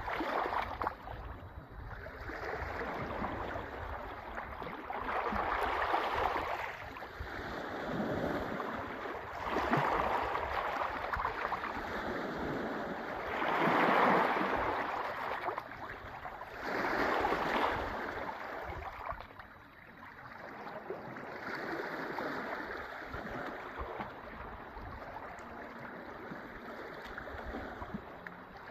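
Sea waves washing in and breaking, the noise swelling and fading every few seconds, with the loudest wave about halfway through.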